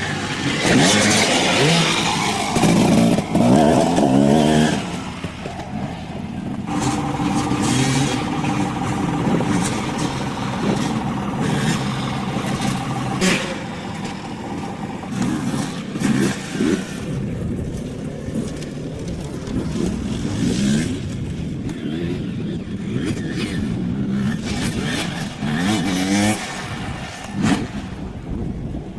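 Dirt bike engines revving up and down repeatedly as the bikes ride the track, loudest in the first few seconds, with a steadier held engine note for several seconds in the middle.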